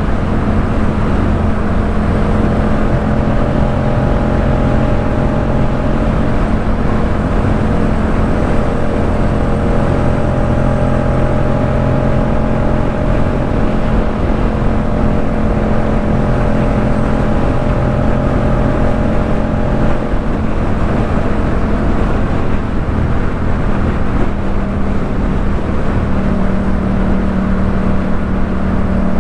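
Yamaha MT-07's parallel-twin engine through a Jeskap K4 full aftermarket exhaust, running at steady cruising revs while the motorcycle is ridden. The engine note changes about two-thirds of the way through and settles at a slightly different pitch.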